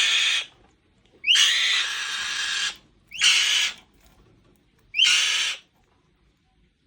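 Alap-alap (small falcon) giving harsh, hissing screeches: four calls, each opening with a short upward glide, the second held for well over a second.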